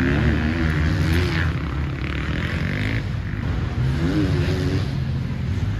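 Motocross bike engine running, revving up and down a couple of times over a steady engine drone.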